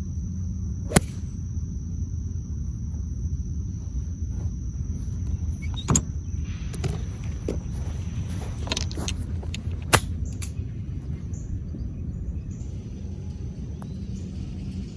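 Golf club striking a ball: three sharp cracks about four to five seconds apart, the last one loudest, with a few fainter clicks between them, over a steady low rumble.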